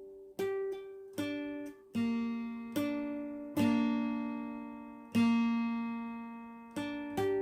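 Guitar played slowly on one chord by a beginner. Single strums and plucked notes are each left to ring out and fade, about nine in all, at an uneven pace.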